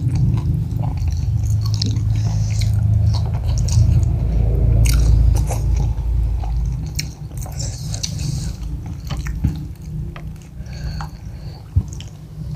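Close-miked biting and chewing of crisp-coated spicy fried chicken, with irregular small crunches and crackles of the thin batter, over a low rumble through the first half.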